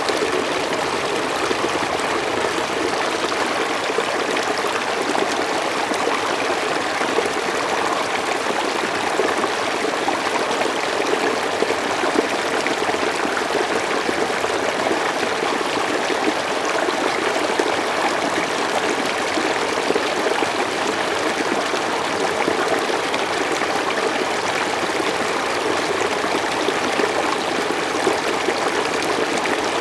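Mountain stream flowing steadily over rocks, a continuous even rush of water.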